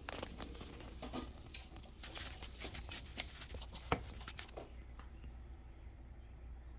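Light, scattered scratching and tapping of small movements, with one sharper tap about four seconds in; the sounds die down after about five seconds.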